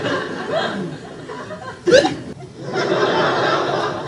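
Inserted laugh-track laughter from a group, broken about two seconds in by a short, loud sound effect that sweeps sharply up in pitch, then the laughter picks up again.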